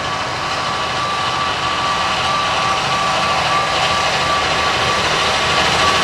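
Track-maintenance machinery running steadily with a constant high whine over a broad mechanical noise, growing gradually louder.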